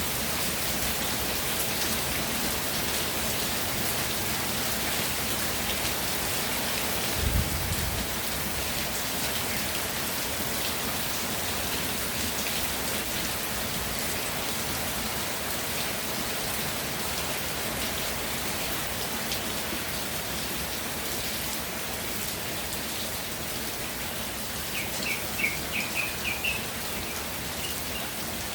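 Steady rainfall, an even hiss of raindrops. About seven seconds in there is a brief low thump, and near the end a quick run of short high chirps from a bird.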